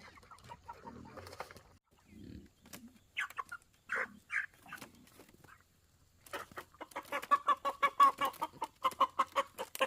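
Chickens clucking: a few separate calls, then a fast run of short clucks from about six seconds in, loudest near the end.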